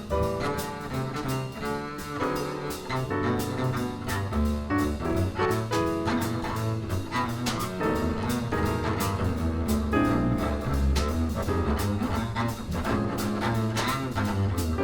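Jazz piano trio playing: acoustic piano, upright double bass and drums with cymbals. The bass lines sit prominently low in the mix, under the piano and a steady pattern of cymbal strokes.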